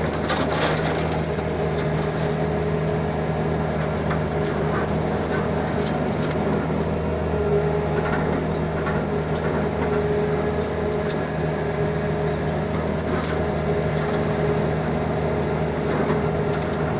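Tractor engine running steadily under load while moving brush, with scattered sharp knocks and cracks over it.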